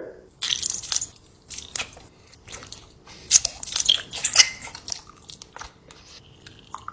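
Close-up mouth sounds of a person biting into and chewing a giant cinnamon bear candy: irregular clicks and crunchy chewing in short spurts.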